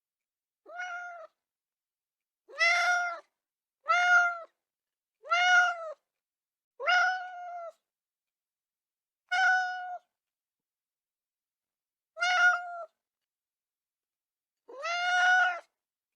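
Cat meowing eight times, each meow a high, pitched call under a second long, with one to three seconds of silence between them.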